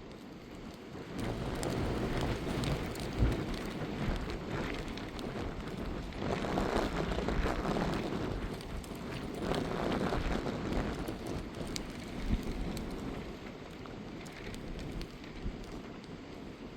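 Steady rain with gusts of wind that swell and fade several times, and a couple of sharp knocks.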